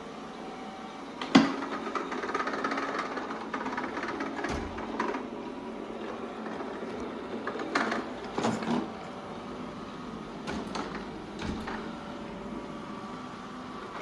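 Shark Ion robot vacuum running, its motor and brushes making a steady mechanical hum. Several sharp knocks sound over it, the loudest about a second and a half in.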